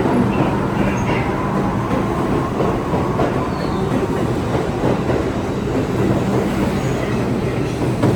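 New York City Subway R62A train running along the track: steady rail noise with a low, steady hum underneath.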